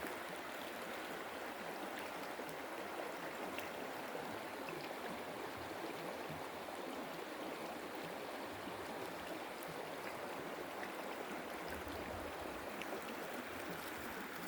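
Mountain stream water flowing and rushing steadily over rocks.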